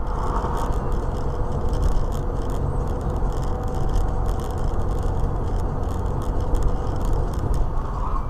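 A moving car's steady road and engine rumble as picked up by a dash cam, with faint light ticking or rattling throughout.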